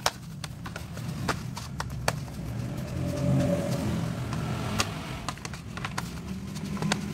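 Dough being kneaded by hand in a plastic basin, with scattered short knocks and clicks from the basin. Under it runs a low steady hum that swells about three seconds in.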